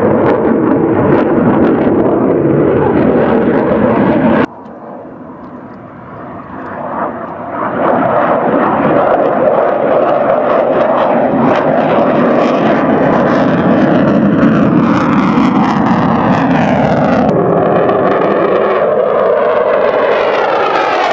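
Airplane engine noise from an aircraft flying past, loud and continuous. It drops off abruptly about four seconds in, then builds back up, and its pitch slides downward as the aircraft passes in the last few seconds.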